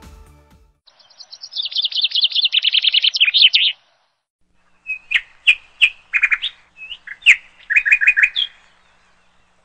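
Birdsong: a fast run of high chirps falling slightly in pitch, then after a pause a string of separate short chirps and whistles, with no other sound behind them.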